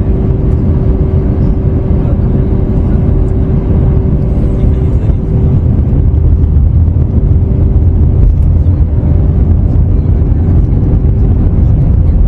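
Cabin noise aboard an Airbus A321neo powered by Pratt & Whitney PW1100G geared turbofans: a steady, loud rumble of engines and airflow with a constant hum running through it.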